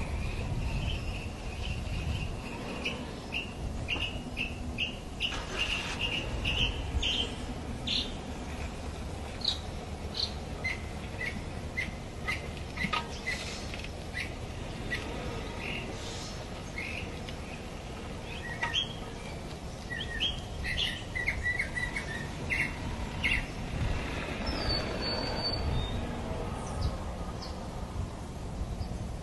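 Birds chirping in many short, quick calls over a low background rumble.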